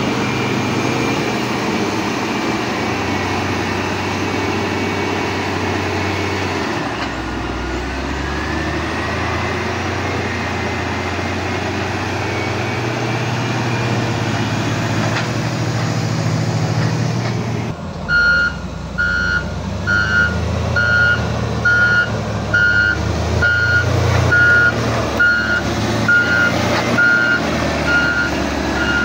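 Diesel dump truck engine running steadily, its note shifting a couple of times. About two-thirds of the way in, a reversing alarm starts beeping evenly, a little over once a second, as the truck backs up.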